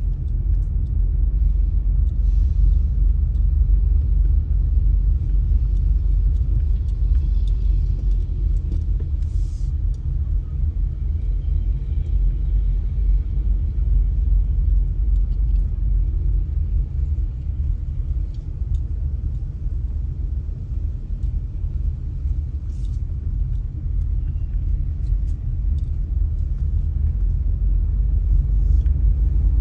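Steady low rumble of a car on the move: road and engine noise, with a few faint clicks.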